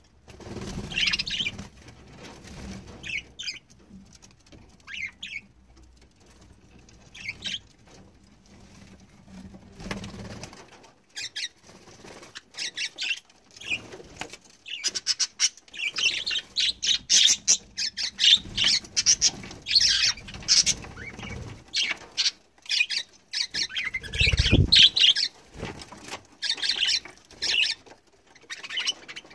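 Budgerigars chattering in quick high chirps and fluttering their wings. The chatter grows dense about halfway through, and there is one dull thump late on.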